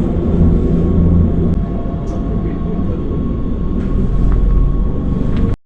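Train running with a steady low rumble, a faint constant whine and a few sharp clicks; the sound cuts off suddenly near the end.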